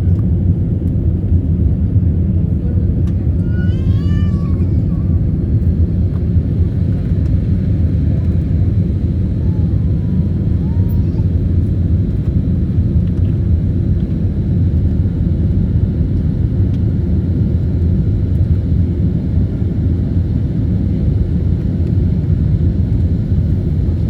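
Airliner in flight, heard from the passenger cabin: a steady, loud low rumble of engines and airflow that does not change. A brief high wavering voice sounds about four seconds in.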